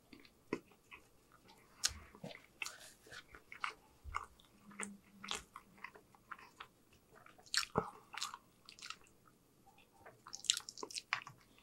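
Close-miked mouth sounds of a person chewing bread: wet smacks and clicks at an irregular pace.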